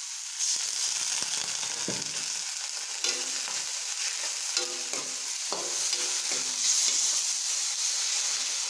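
Chopped green onions and spices sizzling in a kadhai with a little water, a metal spatula stirring and scraping against the pan. A steady sizzle runs throughout, with repeated scraping strokes, some of them ringing briefly.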